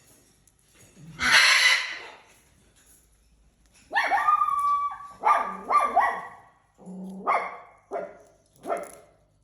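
A pet parrot calling: one harsh, noisy screech about a second in, then a run of short, sharp, bark-like calls from about four seconds on.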